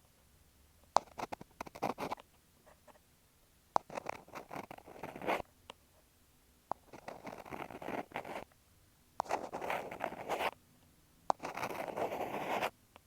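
Ear pick scraping and rubbing against an in-ear earphone microphone, in five bursts of close crackly scratching of about a second each, with short pauses and a few sharp clicks between them.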